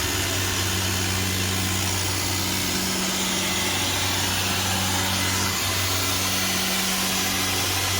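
A putty sprayer's compressor running steadily, a constant hum under a strong, even hiss.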